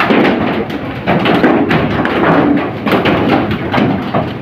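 Close-up eating sounds from a mouthful of mussels: chewing and mouth noises with a run of irregular clicks, taps and knocks.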